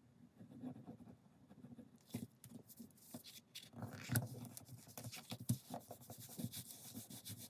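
Paper and chipboard being handled: light scratchy rubbing and small taps and clicks. They start about two seconds in and carry on irregularly.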